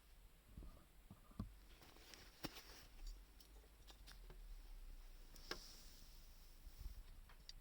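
Faint, scattered crackles and pops of a small wood fire, over a faint hiss.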